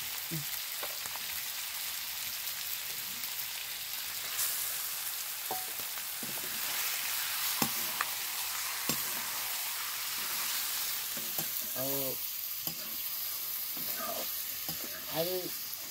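Chicken pieces sizzling in hot oil in a wok, stirred with a wooden spatula, with a few sharp clicks from the stirring.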